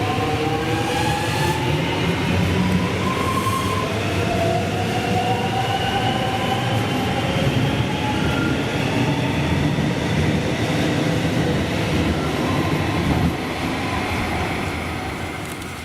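Electric suburban train running past, with its traction motors whining in several tones that rise slowly in pitch as it accelerates, over a loud rumble of wheels on rail. The sound fades away near the end.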